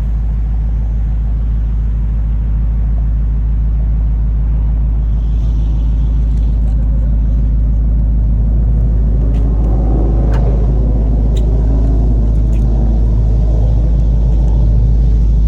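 A motor vehicle's engine running with a steady deep rumble, getting slightly louder toward the end, with a few sharp clicks about ten seconds in.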